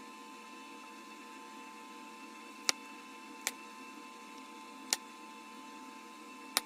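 Sharp single clicks of glass being flaked from a Bud Light Platinum bottle during knapping: four in all, irregularly spaced a second or so apart, over a faint steady hum.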